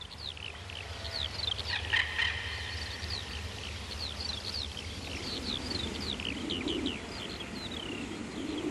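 Birds chirping: a quick, continuous run of short, high chirps, each dropping in pitch, over a low steady hum.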